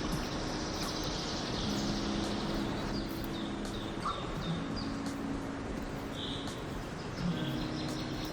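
Songbirds chirping and calling, short high notes scattered through the stretch with one clearer call about six seconds in, over a steady rustling background noise.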